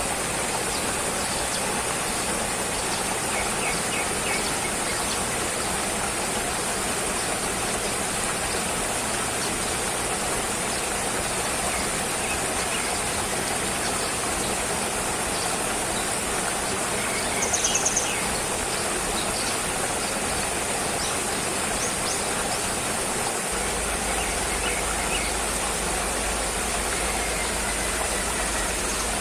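Steady rushing ambient noise with a constant high hiss, and a few faint short bird chirps, the clearest about two-thirds of the way through. A low hum comes in under it near the end.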